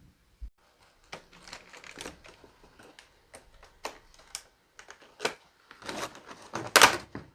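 Irregular clicks and clacks of hard objects knocking together, sparse at first and building to a louder clatter near the end.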